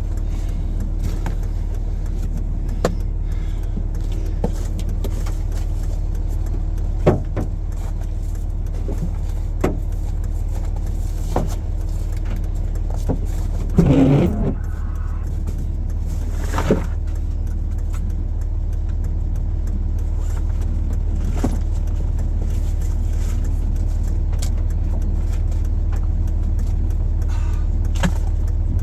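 Vehicle engine running steadily with a constant low hum, with scattered light clicks and knocks and a louder clatter about fourteen seconds in.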